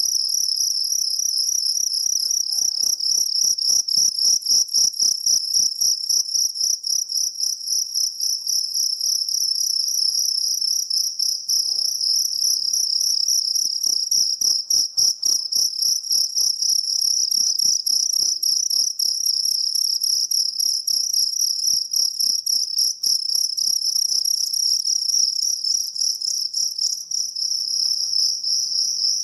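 Jangkrik kalung field cricket chirping without a break: a high, rapidly pulsed trill.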